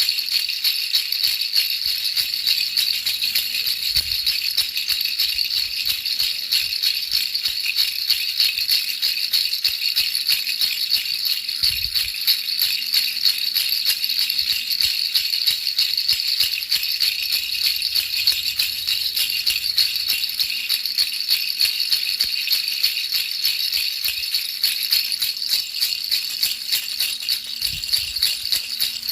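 A baby rattle shaken rapidly and without pause, giving a steady, bright jingling rattle.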